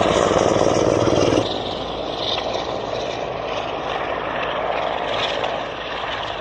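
Helicopter rotor and turbine noise from a Mi-8 or Mi-24, loud at first with a fast rotor chop. About a second and a half in it drops suddenly to a quieter, steadier drone.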